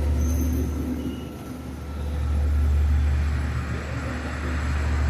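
Low, steady rumble of a train in motion, easing briefly about a second in and then building again.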